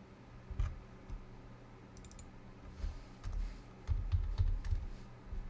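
Computer keyboard and mouse being used: scattered key presses and clicks, a quick run of clicks about two seconds in, then several low desk thuds near the end, over a steady low hum.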